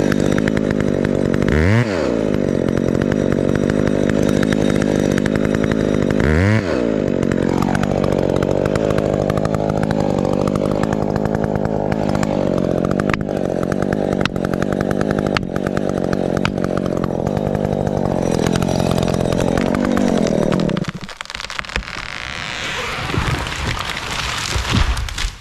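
Two-stroke chainsaw running at high speed. Its engine speed drops sharply and picks up again twice in the first seven seconds. The saw stops about 21 seconds in, followed by a few seconds of rustling, crackling noise.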